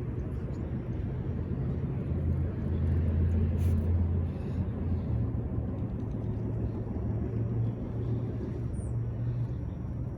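A motor vehicle's engine running, a low steady rumble that swells for a few seconds about two seconds in.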